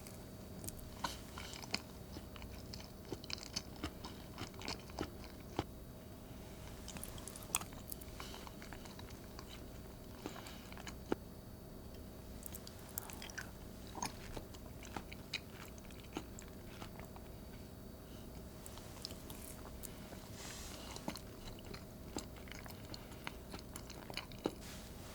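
A person chewing and biting a cocoa shortcrust tart with a baked cheesecake filling, with irregular crisp crunches and clicks from the crust as it is eaten.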